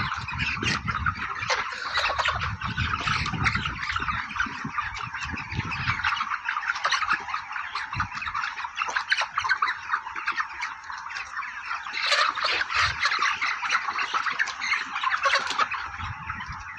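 Flock of Ross broiler chickens calling: a dense, continuous chorus of many short overlapping calls.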